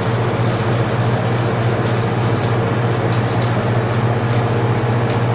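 A steady, unchanging low machine hum with an even hiss over it.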